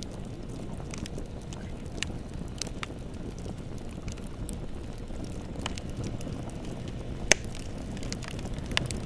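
Bonfire burning with a steady low rumble and scattered crackles and pops, one sharp pop louder than the rest about seven seconds in.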